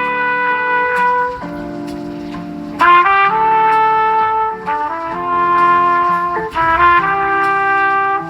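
A Samsung Galaxy S24 built-in ringtone: a brass-like melody of held chords, broken about three seconds in and again near five and seven seconds by quick runs of short notes.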